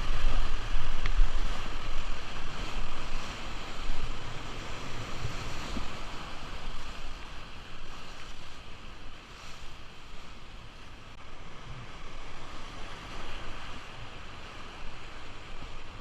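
Steady rush of the river's moving water, with wind buffeting the microphone, heaviest in the first few seconds.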